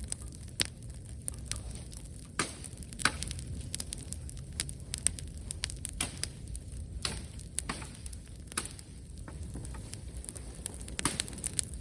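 Wood campfire burning, crackling with irregular sharp pops over a low steady rumble.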